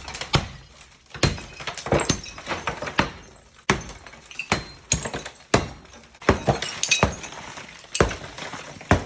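Countertop being broken apart by repeated heavy blows at irregular intervals, each blow followed by the crack and clatter of breaking material.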